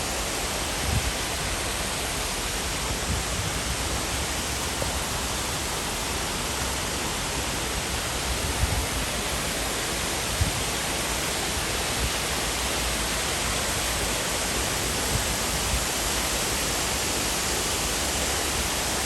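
Steady rush of falling water from the Düden waterfall, with a few soft low thumps.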